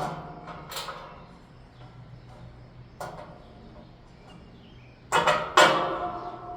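Metal clanks from handling the parts of a 1960s box fan: a few sharp knocks, each ringing on briefly, with the loudest two close together about five seconds in.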